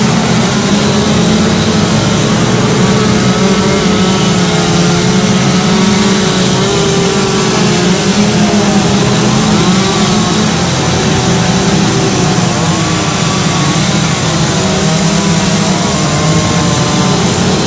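Chainsaw running continuously while carving wood, its pitch wavering slightly as it cuts.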